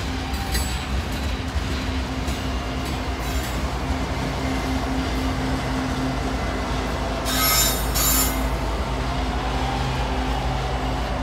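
Freight train rolling past: loaded tank cars rumbling on the rails, then the rear-end distributed power (DPU) diesel locomotive passing with its engine humming steadily. Two short high screeches from the wheels about seven to eight seconds in.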